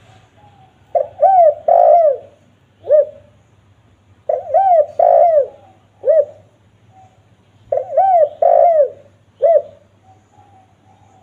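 Spotted dove (tekukur) cooing: three phrases of several bending coo notes, repeated about every three and a half seconds.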